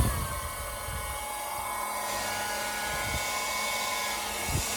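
Cordless rechargeable hair dryer running steadily: a high motor whine over a rush of air, the whine dipping slightly in pitch at the start. Two faint clicks are heard about three seconds in and near the end.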